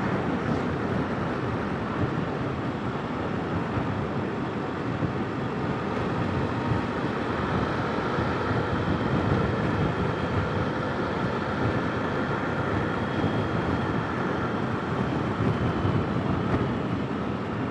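Steady motorcycle engine, road and wind noise heard through a Sena 10C Evo helmet intercom microphone while riding, with faint steady whines running under the rush.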